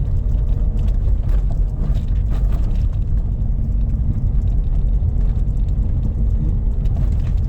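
Car engine and tyre noise from a moving car on a steep, partly paved road: a steady low rumble.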